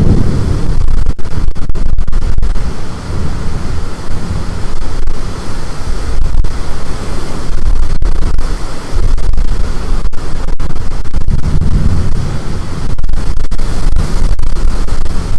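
Storm-force wind buffeting the microphone: a loud, rumbling roar that swells and eases in gusts.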